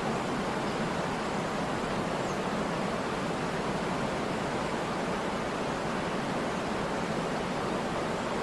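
Waterfall pouring powerfully into its pool: a steady, unbroken rush of falling water.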